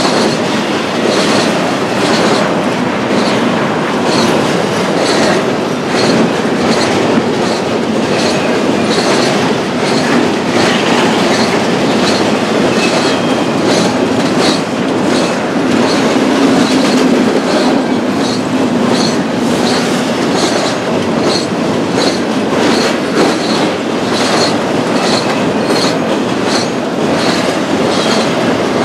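BNSF intermodal stack train rolling past, its cars making a steady loud rumble with regular clickety-clack of wheels over rail joints.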